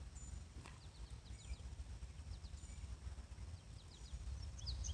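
Songbirds chirping faintly: scattered short, high, downward-sliding calls, becoming louder and quicker right at the end.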